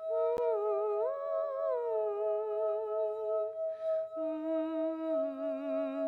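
Wordless vocal music: voices humming a slow, wavering melody with vibrato over one steady held note, with an audible breath between phrases about four seconds in. A single sharp click sounds about half a second in.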